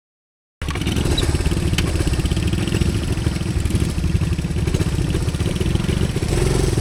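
Honda CT110 postie bike's single-cylinder four-stroke engine running steadily, cutting in abruptly about half a second in after silence.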